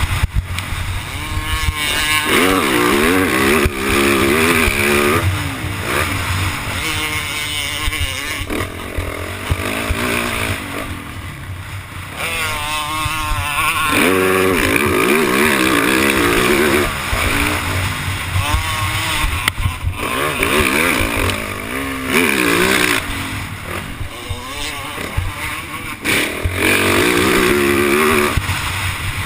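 Yamaha YZ450F four-stroke single-cylinder motocross engine revving hard and easing off again and again as the throttle is worked, its pitch rising and falling every couple of seconds.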